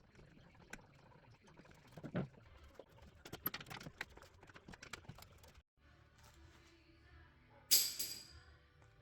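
Workshop sounds of car parts and tools being handled: scattered clicks and knocks, then a single sharp metallic clank near the end that rings briefly.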